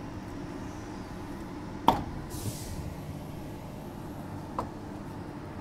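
Steady running hum inside a Transperth A-series electric train. A sharp click about two seconds in is the loudest sound, followed by a brief hiss and a lighter click near the end.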